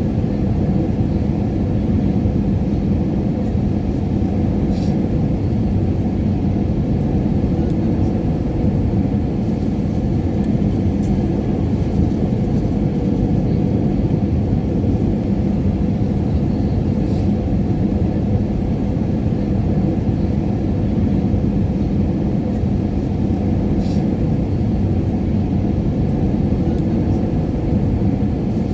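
Airliner cabin noise in flight: a steady, even low rumble of engines and rushing air with a constant low hum.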